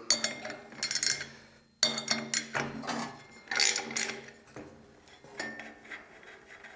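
Metal hand tools clinking and clanking against steel as the nut holding the band saw's upper wheel is worked loose. The sound comes as irregular sharp knocks, busier in the first half and sparser toward the end.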